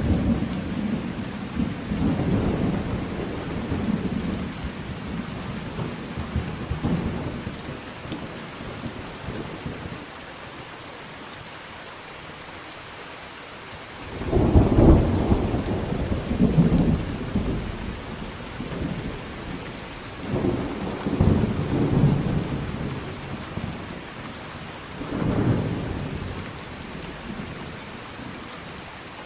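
Thunderstorm: steady rain hiss with repeated low rolling thunder. There are several rumbles, the loudest about halfway through, and a few seconds of rain alone before it.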